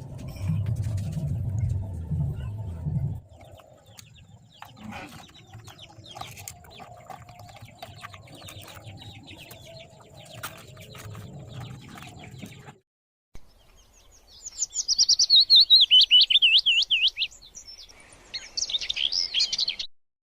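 A small songbird calling: a loud, rapid warbling trill for about three seconds, then a shorter burst of high calls near the end. Before that, a low rumble and scattered clicks.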